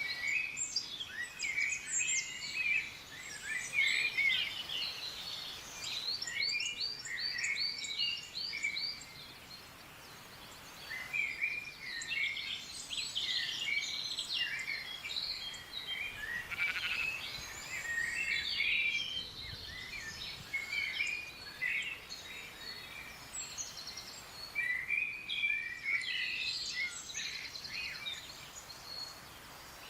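Several wild birds singing and calling at once: a dense mix of quick chirps, rapid trills and short sweeping notes, thinning briefly about a third of the way in before picking up again.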